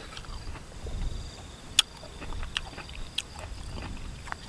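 A person chewing a mouthful of rambutan in a sour, spicy lemon dressing, with a few sharp wet mouth clicks and smacks.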